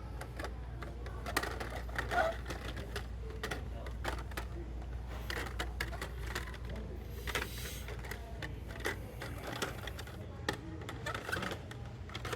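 Irregular clicks and clatter of plastic blister-packed die-cast toy cars being handled and sorted, with a short rustle of packaging a little past the middle, over a steady low hum.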